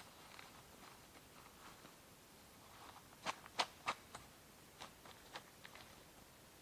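Faint, scattered sharp clicks and pops over a quiet background, with a quick cluster of four about three to four seconds in.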